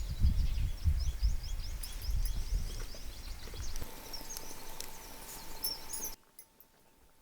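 Birds chirping in quick runs of short high notes over a low rumble that fades after a few seconds; the sound cuts off abruptly about six seconds in.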